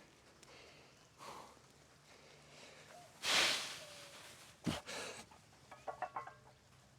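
A forceful breath about three seconds in, then a single thud about a second and a half later followed by a few short clinks: a warm-up deadlift rep, the loaded barbell set back down on the ground.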